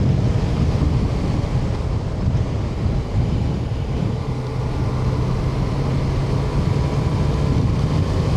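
Yamaha Tracer 900's three-cylinder engine running at steady cruising speed under heavy wind noise on the microphone, its note settling to a steady pitch about three seconds in.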